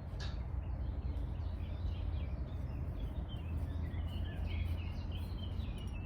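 Outdoor farm ambience: a steady low rumble with small birds chirping faintly throughout.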